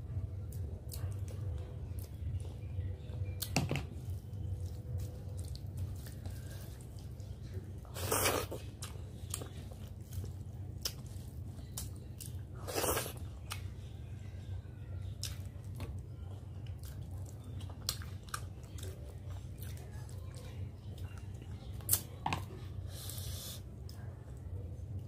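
Close-miked chewing and biting of a mouthful of rice, catla fish-head curry and fried brinjal, with many small wet mouth clicks and a few louder bites about eight and thirteen seconds in. A steady low hum runs underneath.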